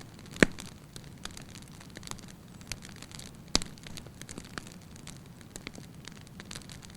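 Fire burning in a fireplace, crackling steadily with scattered small snaps and two loud pops, one about half a second in and one a little past the middle.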